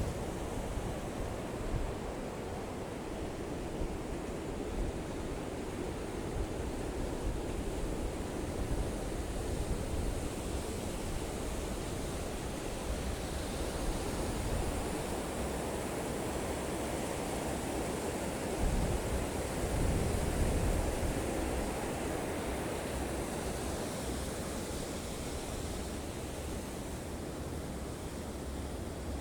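Steady rushing of flowing river water, with gusts of wind buffeting the microphone that swell briefly past the middle.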